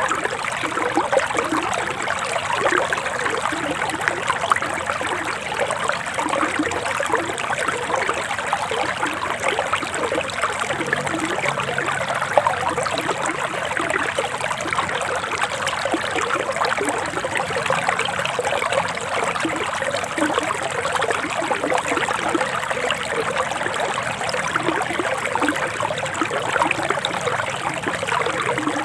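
Forest stream running steadily, water babbling and trickling over stones.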